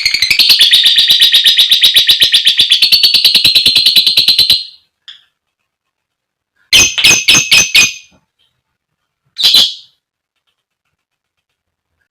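Female lovebird giving a long, rapid, shrill chattering trill (the "ngekek"), about ten notes a second, which stops about four and a half seconds in. After a pause, a quick burst of about five sharp, shrill calls follows, then a single call.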